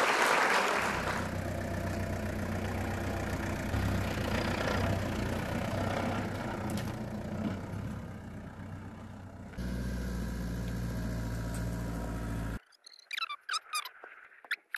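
A 4x4 SUV's engine running under load as it drives up a wet, grassy slope, its pitch rising and falling. It then settles to a steadier low hum that cuts off suddenly near the end.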